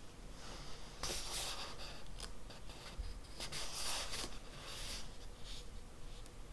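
Writing on paper: a pen or pencil scratching in short strokes, in three spurts with small ticks between them.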